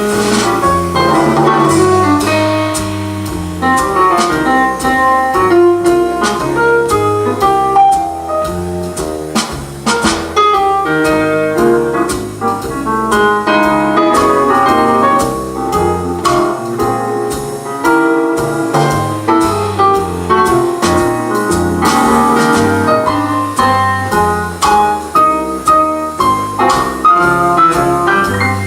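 Instrumental break of a slow jazz ballad played live: a keyboard takes the melody over upright-style bass and drums with cymbal strokes, with no vocals.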